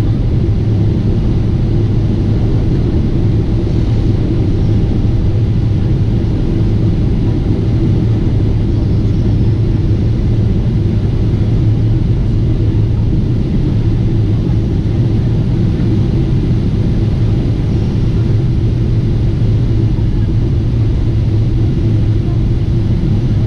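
Steady drone of a Lufthansa Boeing 747-8 airliner in flight as heard inside the cabin: engine and airflow noise, a constant low rumble with no change in pitch or level.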